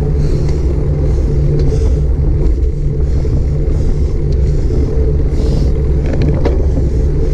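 Steady loud rumble of wind and road vibration on an action camera's microphone during a bicycle ride, with a hiss that swells and fades every half second or so. A few brief clicks come about six seconds in.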